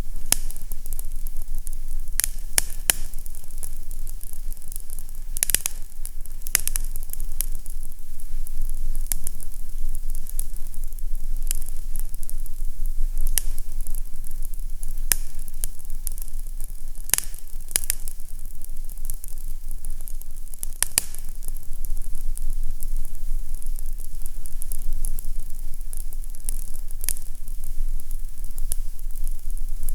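Fireplace fire crackling: a steady hiss broken by scattered sharp pops and snaps every few seconds, over a steady low hum.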